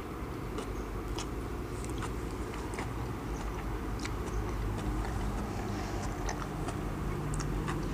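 Soft chewing of japchae glass noodles, with scattered small wet mouth clicks, over a steady low hum.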